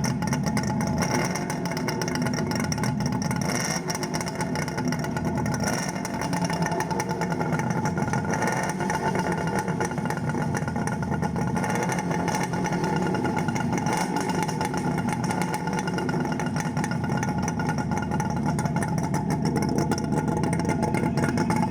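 Kawasaki KH250's air-cooled two-stroke triple running with the exhaust baffles out, a steady engine sound with little change in pitch.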